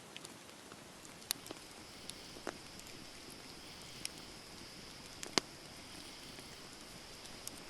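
Campfire wood burning and crackling: scattered sharp pops and snaps over a soft steady hiss, the loudest pop about five seconds in.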